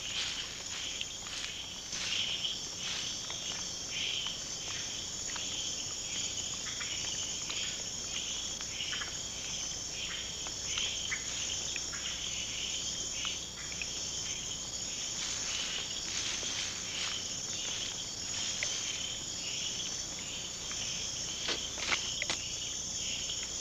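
Rainforest chorus of insects: a steady high-pitched trilling, with short chirping notes repeating over it throughout.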